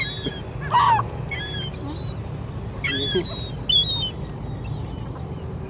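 Seagulls calling: several short squawks, the loudest about three seconds in, over a steady low rumble.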